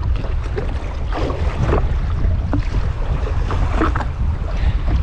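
Wind buffeting the microphone in a heavy, gusting rumble over water lapping around a drifting jetski, with a few short splashy slaps.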